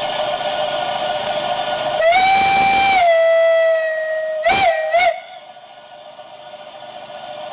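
Steam locomotive whistle sounding one long blast with a slight fall in pitch, then two short toots, the usual signal of a steam train about to move off. The locomotive is the Peckett saddle tank No. 2150.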